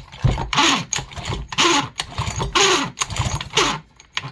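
Pioneer NU-17 chainsaw's recoil starter rope being pulled again and again, about once a second. Each pull gives a rasping whirr that rises and falls in pitch as the starter gear engages and the rope rewinds.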